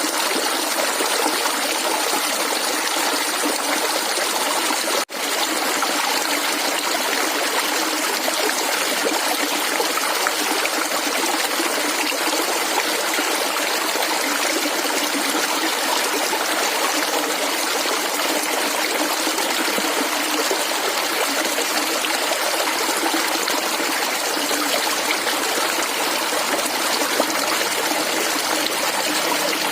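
Steady gurgling of clear running stream water, with a momentary gap in the sound about five seconds in.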